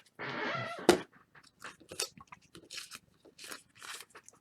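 Trading cards and plastic card sleeves being handled: a short crinkly rustle, a sharp click about a second in, then light scattered ticks and rustles.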